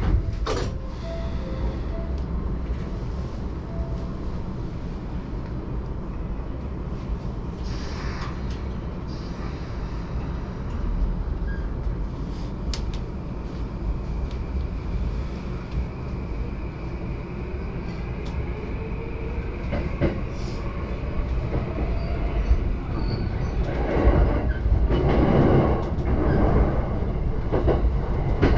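JR Yamanote Line electric commuter train heard from inside the car, running with a steady low rumble. About two-thirds of the way in, a motor whine rises in pitch, and near the end the wheels clack louder over the rail joints.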